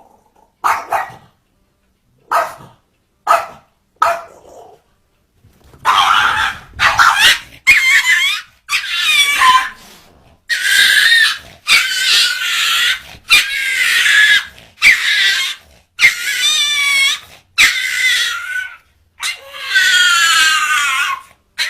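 A dog giving a series of calls: a few short, quieter ones at first, then loud, drawn-out calls with a wavering pitch, about one a second.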